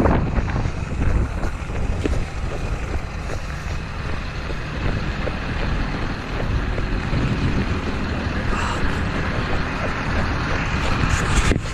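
Snowstorm wind buffeting the microphone, a loud, steady rumbling noise with gusts that rise and fall.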